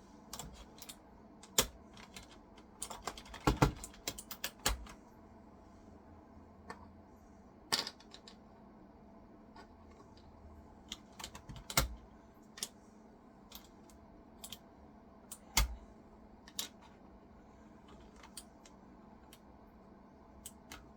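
Plastic keycaps being pulled off a Razer keyboard by hand: irregular sharp clicks and snaps, some in quick clusters, with pauses between.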